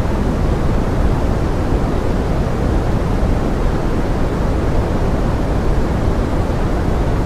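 Pink noise blended with forest rain: a steady, deep, even hiss with no breaks or separate sounds.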